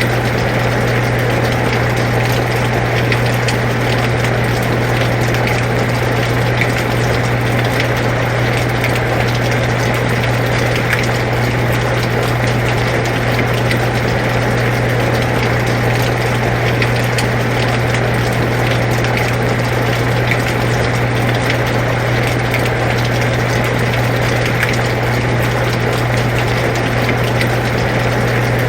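Air conditioner running with a steady low hum, together with steady rain falling as an even hiss with faint scattered drop ticks.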